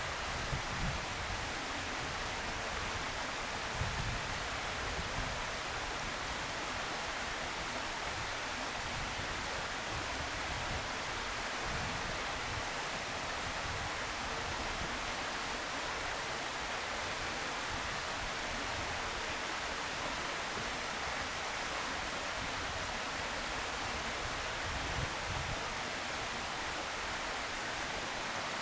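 Steady outdoor hiss with occasional low wind rumbles on the microphone.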